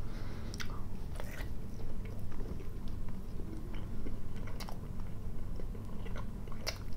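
Close-up mouth sounds of a person biting into and chewing cooked-smoked sausage and cheese: wet chewing with scattered short crackles and clicks, over a steady low hum.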